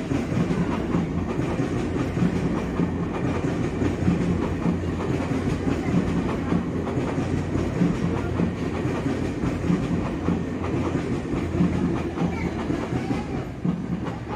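Seibu 2000 series electric train running past below on the tracks: a steady rumble of wheels on rails with scattered clicks, dying away near the end as the train clears.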